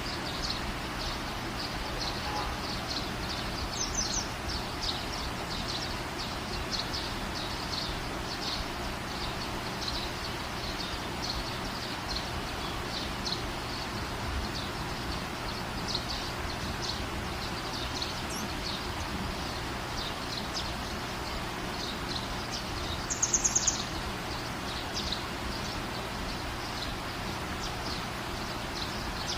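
Outdoor ambience with small birds chirping: short high chirps repeat about twice a second over a steady hiss. About three-quarters of the way through comes a quick, loud burst of sharp, very high chips.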